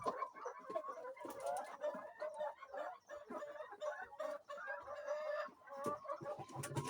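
A flock of laying hens clucking and calling over one another without pause, with scattered sharp clicks among the calls.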